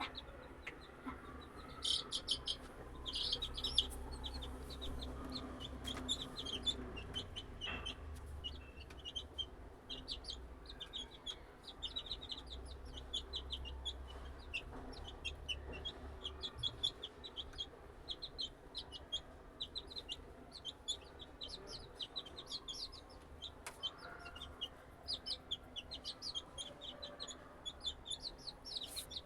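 A group of 22-day-old chicks peeping continuously, many short high chirps overlapping one another.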